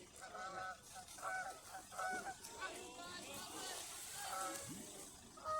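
Geese honking: a run of short, repeated honks, several a second at times.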